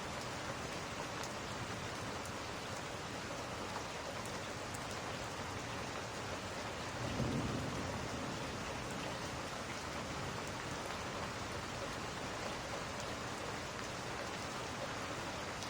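Steady rain falling, with a short low rumble of thunder about seven seconds in.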